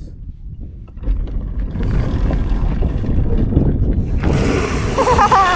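Wind buffeting the microphone while riding an electric dirt bike, swelling from about a second in as the bike gathers speed, with a brief high wavering voice sound near the end.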